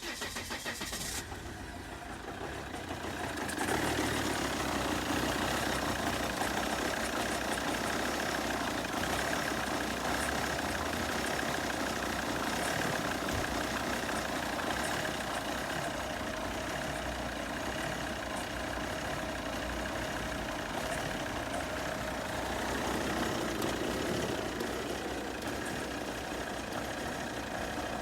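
Volvo XC90 2.4 D5 five-cylinder diesel engine cranking briefly, catching, and settling into a steady idle that gets louder a few seconds in. The engine has a fault that makes it run rough and lumpy when cold, with no fault codes.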